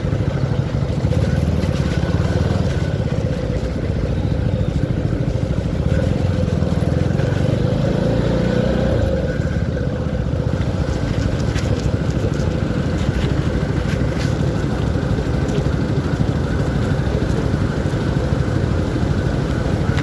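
CFMoto 300SR motorcycle's single-cylinder engine running steadily while being ridden; its low note eases off about nine seconds in.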